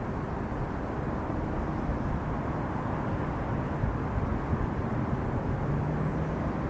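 Steady rumble of jet airliner engine noise, even and unbroken, with a faint low hum briefly rising out of it about six seconds in.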